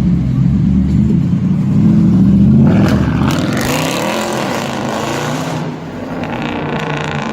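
Car engine running low, then from about three seconds in a loud burst of acceleration with rising and falling engine pitch, easing off after a few seconds.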